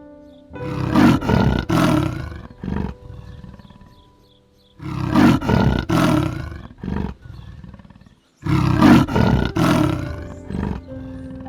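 A big cat roaring in three loud bouts, each a quick run of a few heavy roars, with faint background music underneath.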